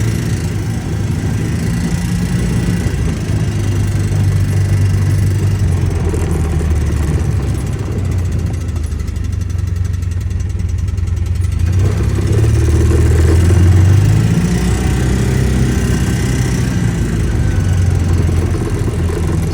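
Polaris Ranger 700 UTV engine running, speeding up briefly about twelve seconds in and then settling back, with a clicking noise from the machine that the owner is recording to track down.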